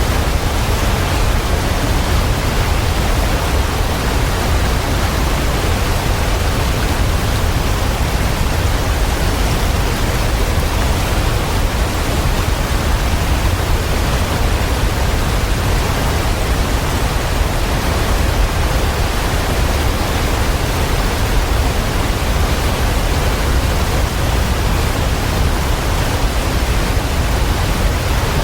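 Waterfall rushing steadily, a constant wash of falling water with a deep rumble underneath.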